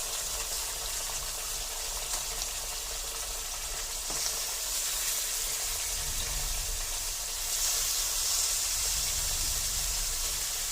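Chicken pieces frying in hot coconut oil, a steady hiss and sizzle that gets a little louder about seven and a half seconds in.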